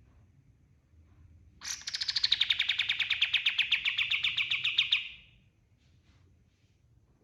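A kapas tembak songbird singing one fast trill of about three seconds, roughly ten notes a second, which drops in pitch at the start and then holds steady before fading out.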